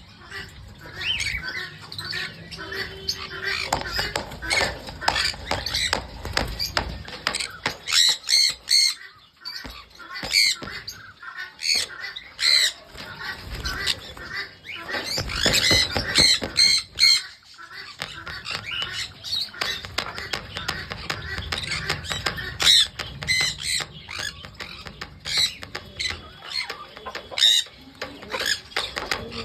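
Pineapple green-cheeked conure squawking over and over in short calls.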